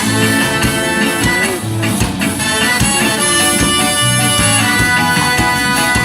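A ska band playing an instrumental passage, with drum kit, guitar, bass and horns in a steady beat.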